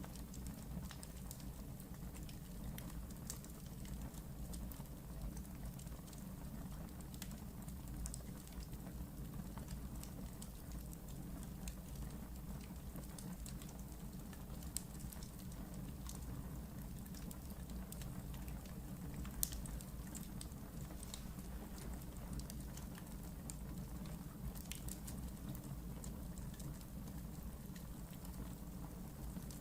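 Wood fire burning in a fireplace: a steady low rumble of the flames with irregular sharp crackles and pops, two louder pops about halfway through.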